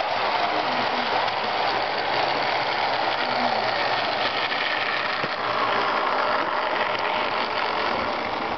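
HO scale Jouef Amtrak Turbo train model running on its track, its electric motor and gears giving a steady mechanical whir with wheel noise on the rails.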